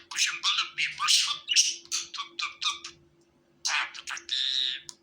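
Budgerigar chattering: a fast run of chirps and warbles that stops for a moment about three seconds in, then starts again with more chirps and a harsh buzzing call near the end. A faint steady hum runs underneath.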